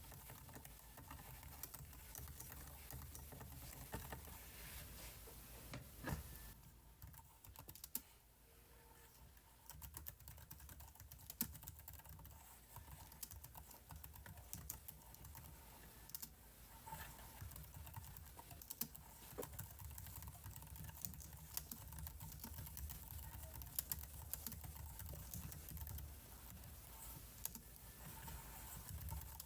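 Computer keyboard keys clicking faintly in irregular runs, with a pause of a few seconds about a quarter of the way in.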